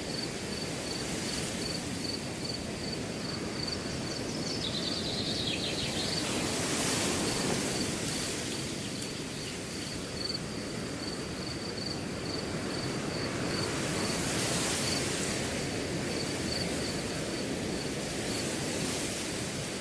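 Wind rushing through a grass field in slow swelling gusts, with a cricket chirping in rapid, even, high-pitched pulses. A brief second chirring joins it about a quarter of the way in.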